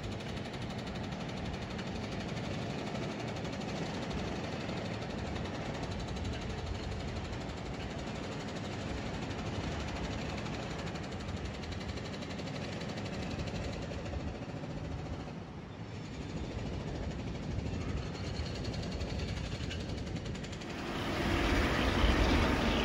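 Steady low rumble of diesel trains and city traffic around a rail overpass. About 21 s in, it turns louder and deeper as a diesel freight locomotive hauling tank wagons runs past close by.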